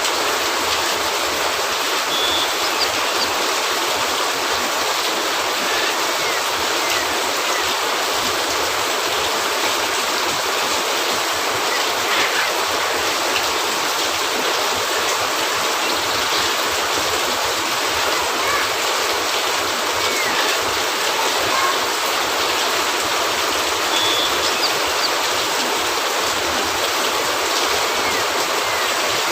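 Steady rain falling on a roof, an even hiss with no let-up.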